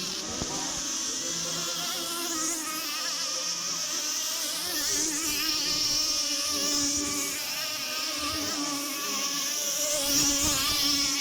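Small two-stroke petrol engines of several racing RC boats, heard as a high buzzing whine. The pitch wavers and glides up and down as the boats race.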